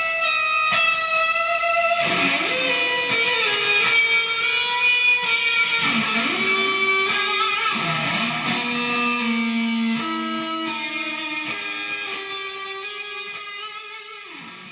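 Electric guitar playing sustained, ringing notes, several of which swoop down in pitch. The playing fades out over the last few seconds.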